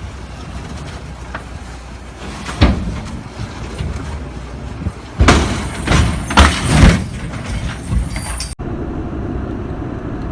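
A motor vehicle running with a low rumble. There is a sharp loud bang about two and a half seconds in and a cluster of loud impacts about halfway through. Near the end the sound cuts abruptly to a steadier vehicle noise.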